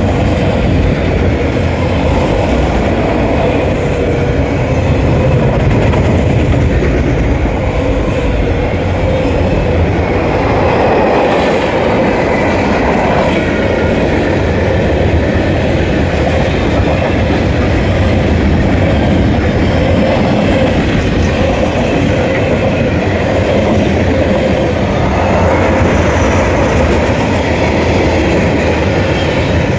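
CSX mixed freight train's cars rolling past, steel wheels running on the rails with a loud, steady noise and a faint steady whine.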